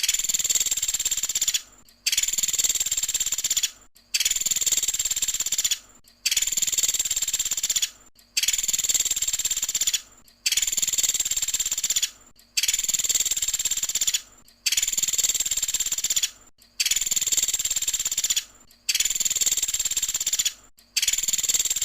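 Small woodpecker (pelatuk sampit) calling: a steady, high, buzzing trill lasting nearly two seconds, repeated at an even pace about every two seconds with short breaks in between.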